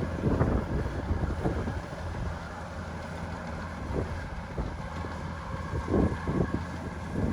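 Kubota DC-105X rice combine harvester running steadily at a distance from the microphone, with a few short low thumps, the loudest about six seconds in.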